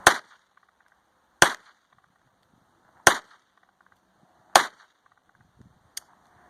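Four gunshots about a second and a half apart, each a single sharp crack, then a fainter crack near the end.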